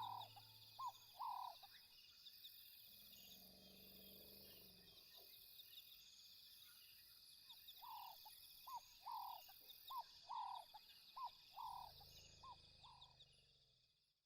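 Faint wild animal chorus: a steady high trilling background with two bouts of short, repeated falling calls, the second a run of about eight calls, fading out at the end.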